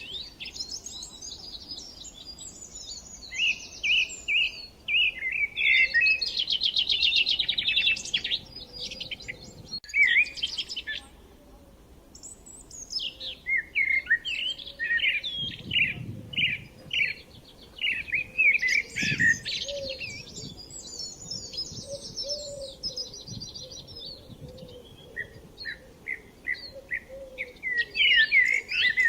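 Songbirds singing: a run of quick chirped, whistled and trilled phrases that pause briefly about twelve seconds in, then start up again.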